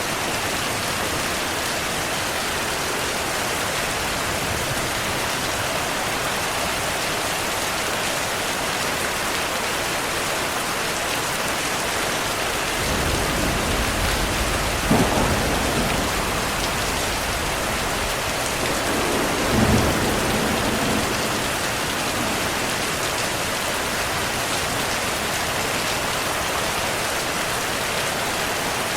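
Heavy rain falling steadily. About halfway through, thunder rolls in with a low rumble, a sharp crack, and a second swell of rumbling a few seconds later before it fades back under the rain.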